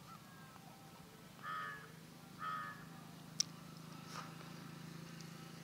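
A bird calling twice, faint, two short calls about a second apart.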